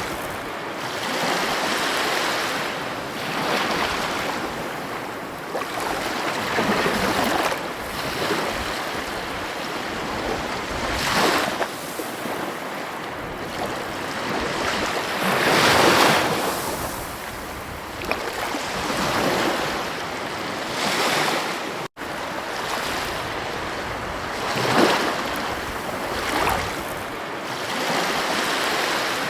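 Ocean waves breaking and washing onto a beach: a steady rush of surf that swells and ebbs every few seconds, with a few louder breakers. The sound cuts out for a split second partway through.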